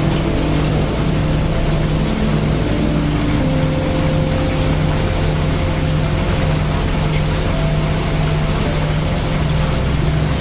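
Heavy rain as an unbroken, even wash over a deep rumble of brown noise, with faint low hums that shift in pitch now and then.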